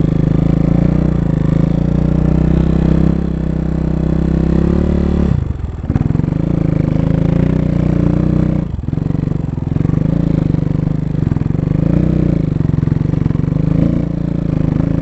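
250 cc dirt bike engine running under throttle. Its pitch rises and falls as the rider works the throttle, and it drops off sharply twice, about five and a half seconds in and again about nine seconds in.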